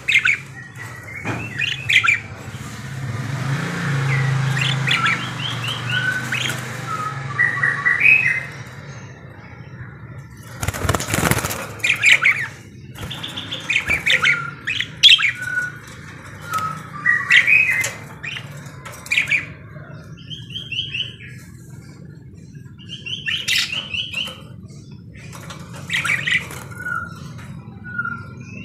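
Budgerigars chattering and warbling in clusters of chirps, squawks and quick rattling trills. About eleven seconds in there is a brief rush of noise.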